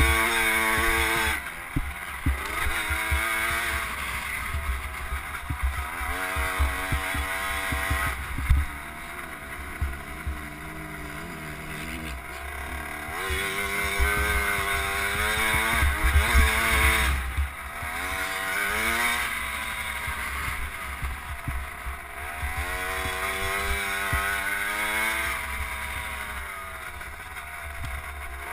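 KTM 50 SX's 49 cc two-stroke single-cylinder engine on a small motocross bike, heard from an onboard camera, revving up and falling off again and again as it is ridden over jumps and ruts. A low rumble of wind on the microphone runs under it.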